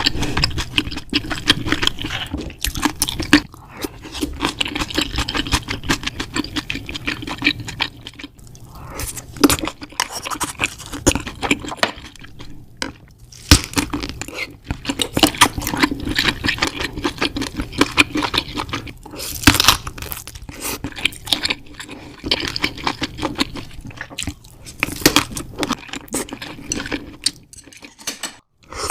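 Close-miked eating sounds: wet chewing and smacking, with cutlery clinking and scraping on a dish.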